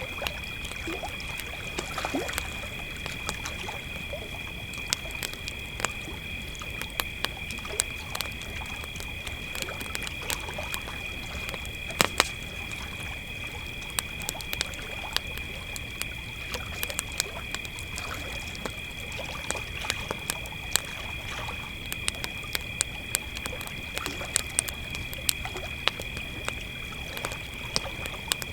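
Crickets trilling steadily on two high pitches while a campfire crackles with frequent sharp pops, one louder pop about twelve seconds in.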